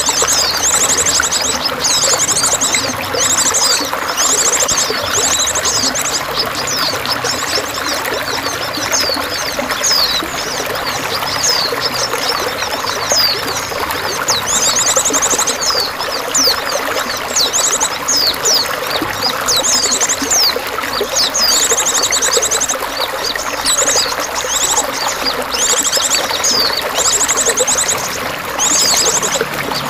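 Water pouring and splashing steadily, with small songbirds chirping over it: repeated quick high trills and short falling chirp notes every second or two.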